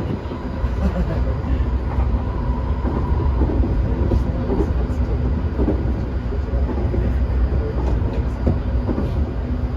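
Tokyu 2020 series electric train running between stations: steady rumble of wheels on rail with occasional clicks over rail joints, and a faint steady whine from the traction motors.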